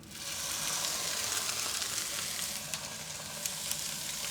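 Steak searing in a hot frying pan: a steady sizzle with a few sharp pops, cutting off near the end.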